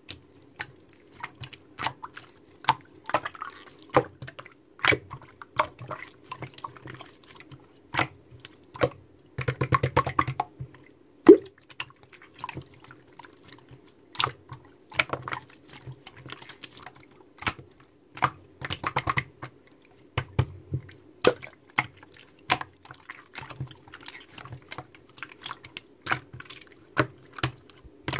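Hands squishing, poking and pressing slime, making irregular sticky clicks, pops and wet squelches, with a quick run of crackling pops about ten seconds in.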